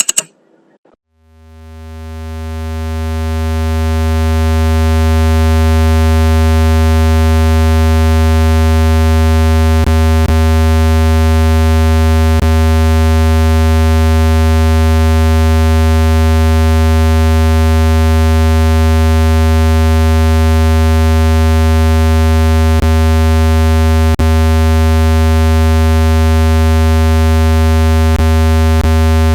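A steady, low buzzing tone made for shaking dust out of a phone speaker when played at full volume. It is rich in overtones, fades in over about the first four seconds after a brief click and a second of silence, then holds unchanged.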